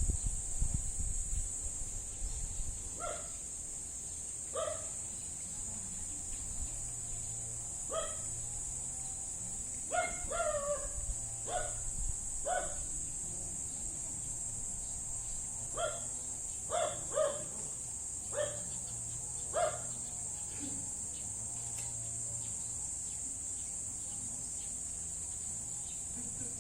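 A steady, high-pitched insect drone of crickets, with about a dozen short pitched animal calls at irregular intervals from about three seconds in, falling away near the end.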